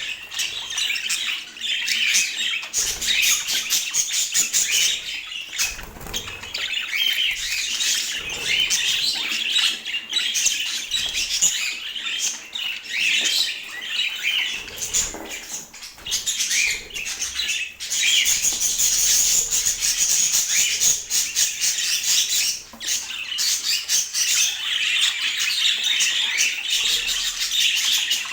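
Budgerigar chatter: a continuous stream of fast chirps, warbles and squawks.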